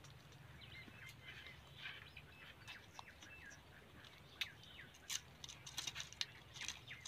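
Pet parrots chirping and squeaking softly in many short calls. A few sharp clicks come in from about four seconds on.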